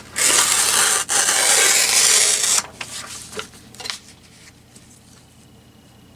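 Printed craft paper being worked to remove its white edges: two long rasping strokes with a short break about a second in, then a few light clicks and scrapes of paper handling.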